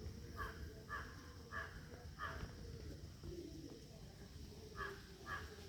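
A bird calling in short repeated calls: four in quick succession, a pause, then three more near the end.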